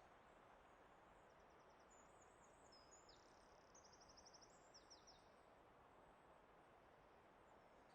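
Faint forest ambience: a steady soft hiss, with a small songbird's high, rapid trilling phrases from about two to five seconds in.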